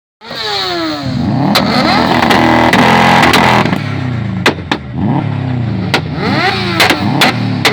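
Performance engine revved hard through a loud exhaust. The revs fall and climb again and again and are held high from about two seconds in to past three and a half, with sharp exhaust pops and bangs on the overrun, the crackle of a flame-spitting exhaust.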